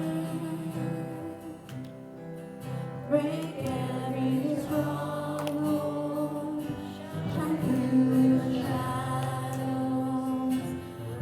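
Gospel worship music: voices singing long held notes over instrumental accompaniment.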